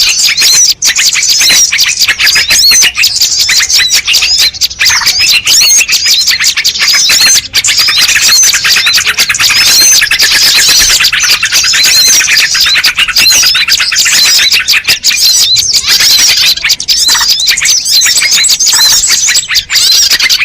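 Loud, dense chorus of many small birds chirping and twittering over one another without a break: a recorded bird-lure call (suara pikat) made to draw wild birds in.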